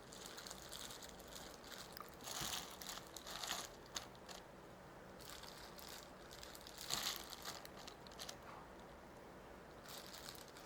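Faint rustling and crunching of a shredded cabbage salad being moved onto a serving plate, in a few short bursts about two, three and a half, and seven seconds in.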